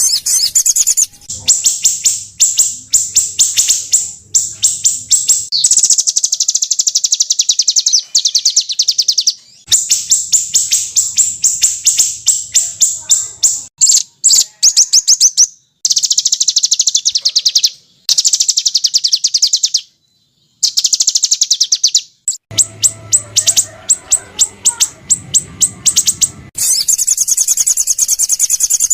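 Small songbirds giving rapid, harsh, high-pitched trills and rattling chatter in dense repeated bursts. The bursts break off abruptly, with a short silence about twenty seconds in. A faint low hum runs under some passages.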